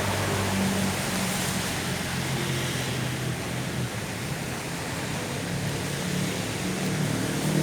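Steady hiss of rain and wet street noise with city traffic: low engine hum from passing vehicles sits under the rain.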